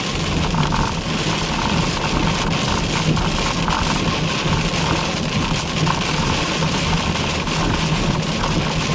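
Car driving, with a steady engine and road drone heard from inside the cabin, and rain spattering on the car in irregular fine ticks.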